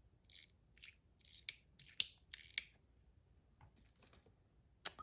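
Small metal fidget parts being handled while the fidget is taken apart: short scraping rubs and a few sharp metal clicks, the loudest about two seconds in.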